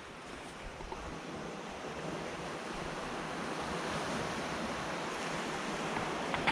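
Sea waves washing onto a beach: a steady rushing surf that swells slightly over the first few seconds.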